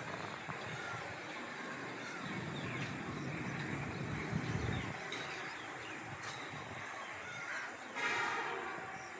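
Steady outdoor background hiss with a low rumble that swells near the middle, and a short honk-like pitched call about eight seconds in.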